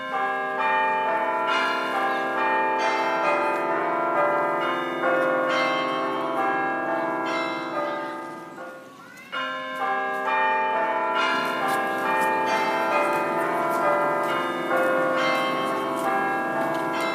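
Chiming bells play a melody of ringing, overlapping notes. The phrase fades out about eight and a half seconds in, then starts again.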